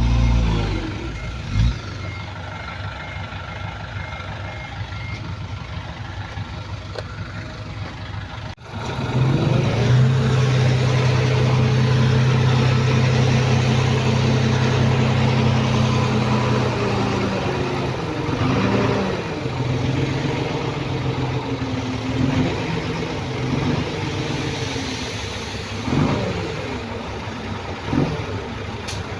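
Heavy diesel engines of earthmoving machinery working: a loud engine drone that drops back about a second in, then, after a sudden break, a steady engine note that later rises and falls under load. A faint repeating beep sounds in the first few seconds.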